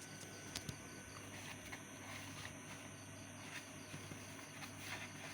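Faint background of insects chirping in a quick, even repeating pattern, with a few soft clicks.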